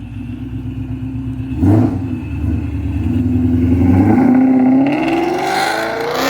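2017 Mustang GT's 5.0 V8 through a SATT cat-back exhaust with quad tips, running at low revs with a short sharp burst about two seconds in, then accelerating with the pitch climbing steadily over about three seconds before a loud burst near the end.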